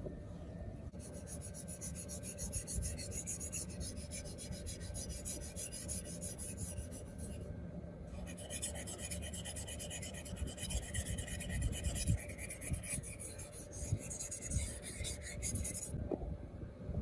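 Rapid, rhythmic rasping strokes of a part being scraped or filed by hand, in two spells with a short pause about seven seconds in, over a low background rumble.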